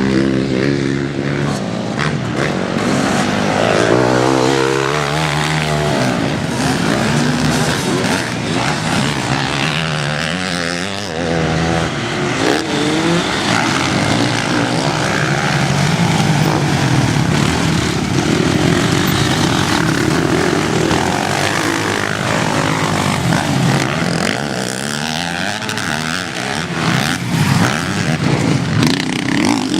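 Motocross bike engines revving hard and easing off again and again as the bikes ride the track, the pitch climbing and falling several times.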